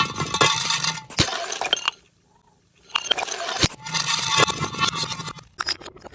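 Glass bottles shattering: dense crashing and tinkling of shards with sharp clinks, breaking off for about a second partway through before the breaking starts again.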